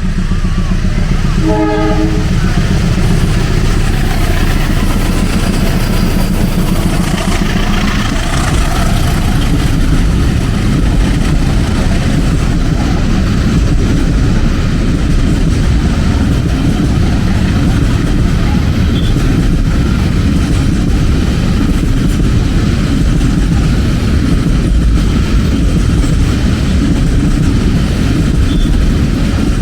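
A train passing close, its wheels running along the rails in a loud, continuous rumble with clattering that lasts the whole time. A short locomotive horn blast sounds about two seconds in.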